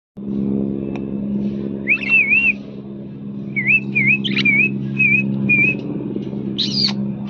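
A parrot whistling short, warbling phrases that waver up and down in pitch, with one sharp, higher call near the end. A steady low hum runs underneath.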